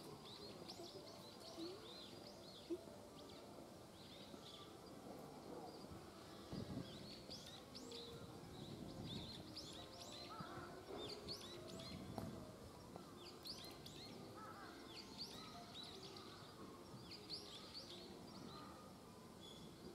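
Faint outdoor ambience with small birds chirping: many quick, high chirps scattered throughout.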